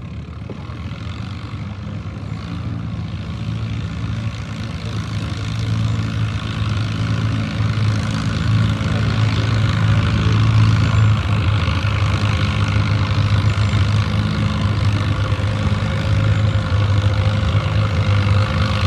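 Allis-Chalmers WD tractor's four-cylinder engine running hard under load while pulling the weight sled. The engine note holds steady and grows steadily louder through the run.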